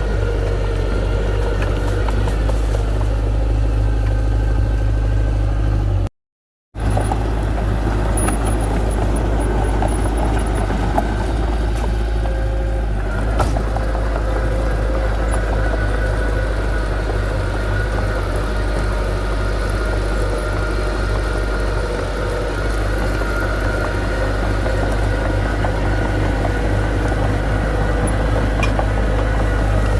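Engine of heavy earthmoving equipment running steadily with a low hum and steady whining tones above it. The sound cuts out completely for about half a second around six seconds in.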